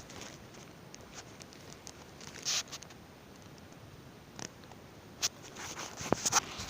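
Sparse crackles and rustles of footsteps on dry leaves and twigs, irregular, with a quicker run of steps near the end.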